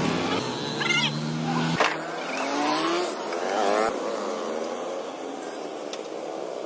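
Truck engine running steadily, then revving up with a rising pitch about two seconds in before easing back.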